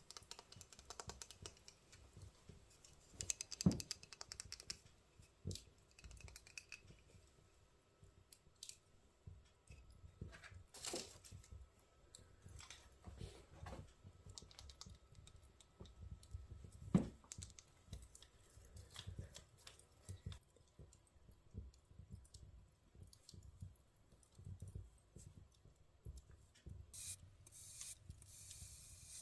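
Quiet close-up handling sounds of a fire being laid in a fireplace: scattered small clicks, taps and brief rustles, with two sharper knocks, one about four seconds in and one about seventeen seconds in.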